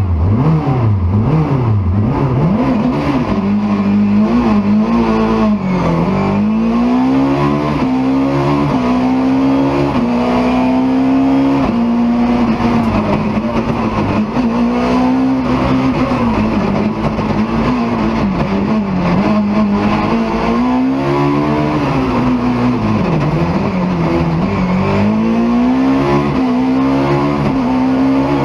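BMW E30 M3's four-cylinder engine driven hard at full throttle, revs climbing and falling again and again as it shifts gear and lifts off for corners.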